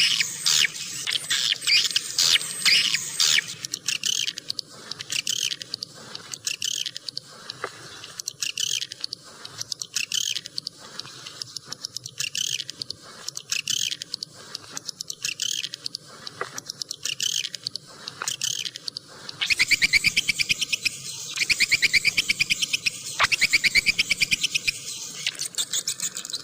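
Swiftlets (burung walet) chirping in rapid, high trilling bursts. About 20 seconds in, a denser and louder run of very fast trills takes over. This is the kind of swiftlet call played to lure the birds into nesting and roosting houses.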